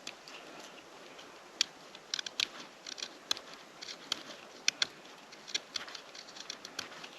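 Campfire crackling: irregular sharp snaps and pops, several a second and unevenly spaced, over a faint steady hiss.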